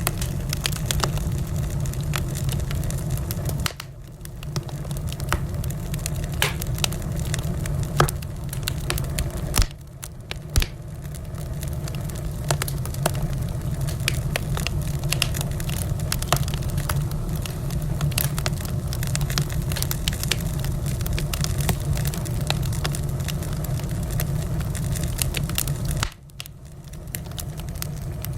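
Wood fire crackling in a fireplace: many sharp pops and snaps over a steady low rumble of the flames. The sound drops suddenly three times, about four seconds in, about ten seconds in and near the end, then builds back up.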